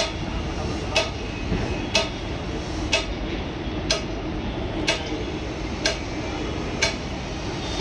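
Low, steady rumble of a passenger train pulling away along the tracks, with a sharp tick repeating evenly about once a second over it.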